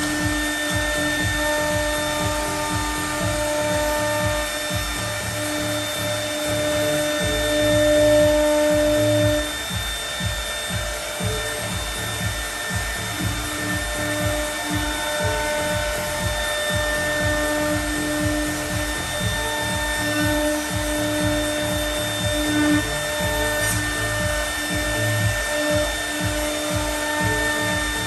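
CNC router spindle milling aluminium composite panel: a steady high whine over a rapid low rumble, changing slightly in strength as the cutter moves through the sheet.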